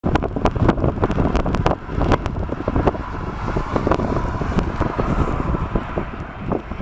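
Gusty storm wind buffeting the microphone: a heavy low rumble with irregular cracks and pops. In the second half a faint steady whine of an approaching jet airliner's engines comes in under it.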